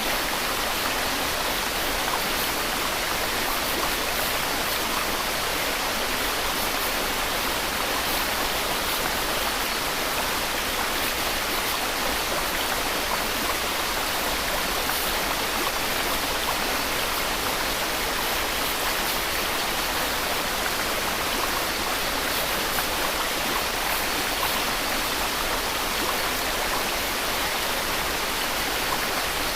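Steady white noise: an even, unbroken hiss spread across the whole range from low to very high, with no change in level.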